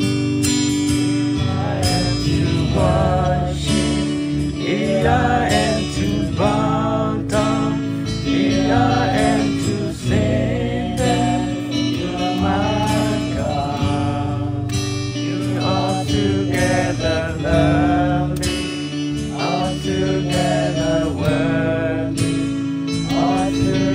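A group of men singing a worship song together, accompanied by strummed acoustic guitar, with a steady held low note underneath.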